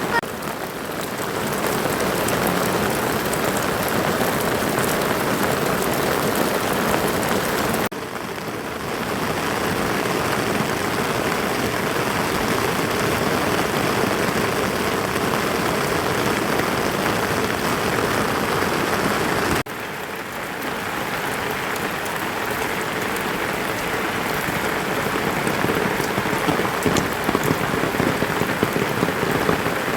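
Heavy rain falling steadily, an even hiss of drops. It cuts to a slightly quieter stretch twice, about 8 and 20 seconds in, then builds back up.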